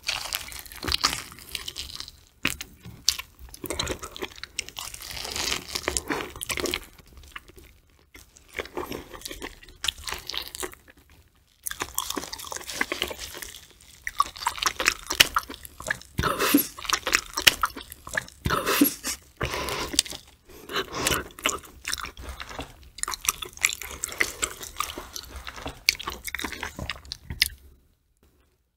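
Close-miked chewing and biting of raw fatty tuna belly sashimi: wet, clicky mouth sounds in clusters with short pauses between bites. It goes quiet briefly near the end.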